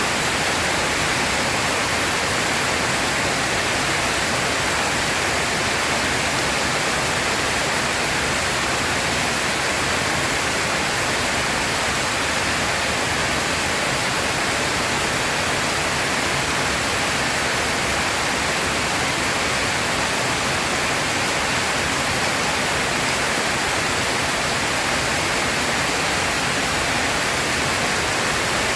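Heavy rain falling steadily as a dense, even hiss, with no thunder or other break.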